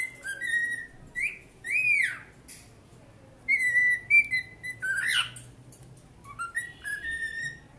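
Tame cockatiel whistling its song: a string of clear whistled notes, some swooping up and down, some held level, with a quick rising sweep about five seconds in.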